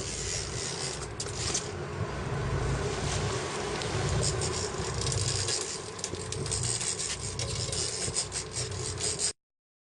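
Boat motor running steadily under wind and water noise, with scattered clicks in the second half. The sound cuts off suddenly near the end.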